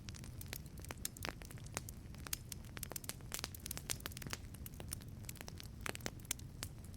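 Wood fire crackling inside a wood-fired pizza oven: irregular sharp pops and snaps over a low, steady rumble of the burning fire.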